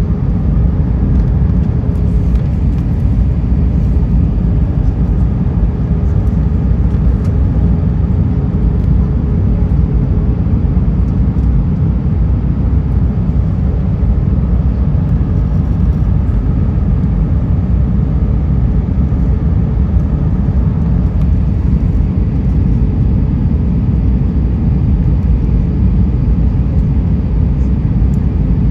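Steady cabin noise inside an Airbus A320: a loud, even rumble of the engines and rushing air, with a faint steady hum above it.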